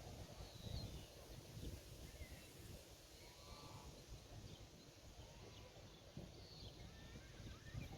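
Faint pastoral ambience: scattered distant bird chirps over a low rumble of wind, with one brief faint bleat from a sheep or goat about three and a half seconds in.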